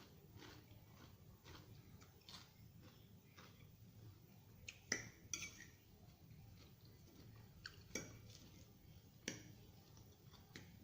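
Soft, faint chewing of a vegetable salad, with four sharp, brief clinks of cutlery against a dish in the second half.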